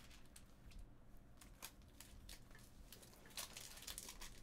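Near silence with faint scattered clicks and rustles of trading cards being handled.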